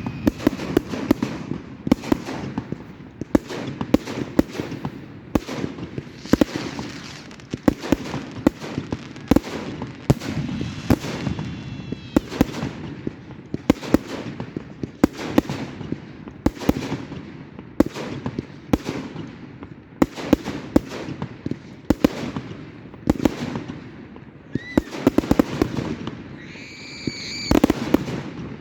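Fireworks display: a dense, irregular run of sharp bangs and crackling bursts, several a second. Short whistling tones sound near the middle and, wavering, near the end.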